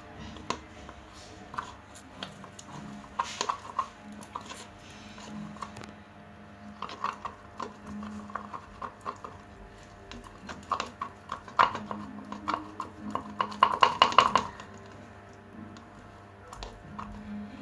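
Quiet background music with several short runs of clinking and tapping, like a utensil knocking against a dish while mixing, the busiest in the second half.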